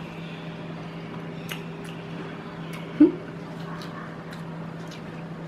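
Mouth sounds of someone chewing a mouthful of fried rice, with a few faint clicks of a metal spoon on a plastic food tray over a steady low hum. A short hummed 'mm' comes about three seconds in.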